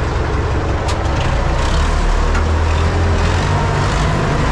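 Universal U650 tractor's diesel engine running steadily under load while pulling a cultivator, its low drone shifting in pitch about halfway through.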